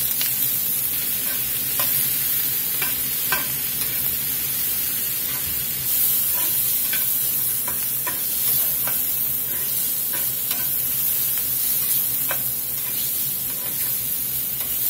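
Diced onion and sliced mushrooms sizzling in oil in a cast iron skillet, stirred and turned with a metal spatula that scrapes and clicks against the pan every second or so. The mushrooms are cooking down so their water cooks out.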